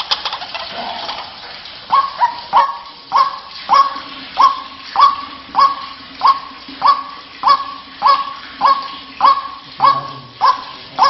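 White-breasted waterhen's honking call repeated in a steady series, each note dropping sharply onto a short held note, about every half second. The series starts about two seconds in and runs on loudly, with softer, more scattered calls before it.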